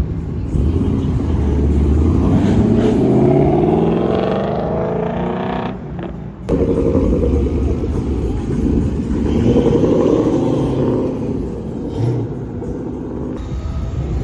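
Car engine accelerating hard, its pitch climbing. It dips sharply for a moment about six seconds in, then keeps running loud and rising again.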